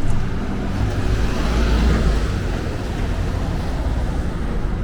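City street traffic: a motor vehicle passing close by over a steady traffic rumble, its noise swelling to a peak about two seconds in and then fading.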